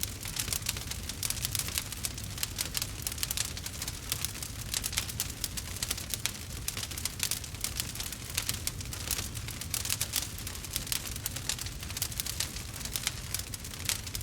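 Wood fire burning, with rapid crackles and pops of burning wood over a low steady rumble.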